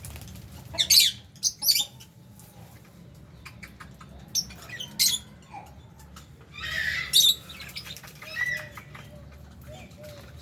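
Flock of lovebirds in an aviary giving sharp, shrill, high-pitched screeches every second or few, with softer chirps in between and a brief rustle before the loudest call.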